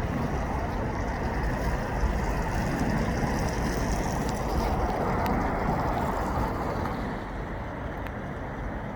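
Wind buffeting the microphone: a steady rushing noise with a heavy, fluctuating low rumble, easing slightly near the end.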